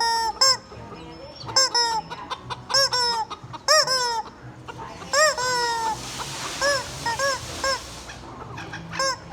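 Squeaky rubber chicken toy being squeezed over and over, giving a dozen or more short honking squawks that rise and fall in pitch, mostly in quick runs of two or three. A breathy hiss comes in about six seconds in and lasts a couple of seconds.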